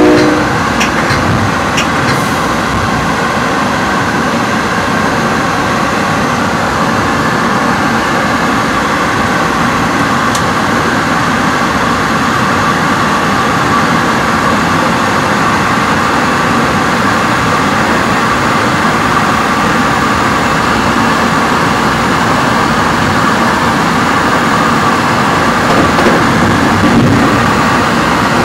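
Metra commuter train running at speed, heard from inside the car: a steady rumble of wheels on rail. The train horn cuts off right at the start, and a few faint clicks follow in the first two seconds.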